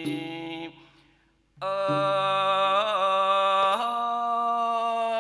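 Thai classical singing: a voice holds long, slowly bending melismatic notes. It drops away for about a second near the start, then comes back in.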